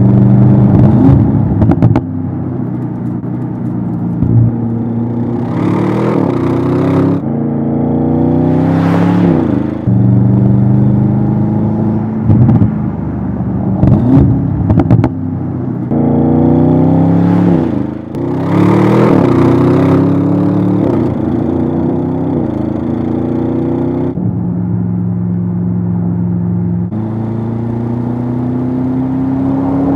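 Audi RS 7 Sportback performance's twin-turbo 4.0-litre V8 under hard acceleration. The engine note climbs in pitch and drops back at each upshift, again and again. A few times the car rushes past with a swell of tyre and wind noise.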